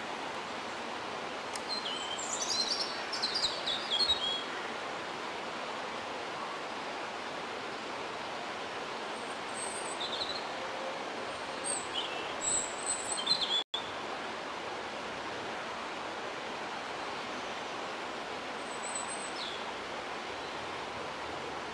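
Songbirds singing over a steady outdoor background hiss: a run of notes falling in pitch about two seconds in, then scattered short chirps later on.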